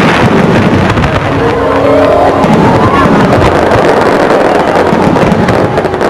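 Fireworks display at close range: shells launching and bursting with continuous dense crackling and bangs, and a rising tone about two seconds in.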